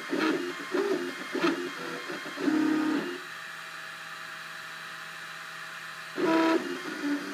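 Cubify 3D printer's stepper motors whining in short tones that change pitch as the print head moves. About three seconds in the moves stop and only a quieter steady hum remains, until a louder, higher whine of about half a second near the end, followed by more short moves.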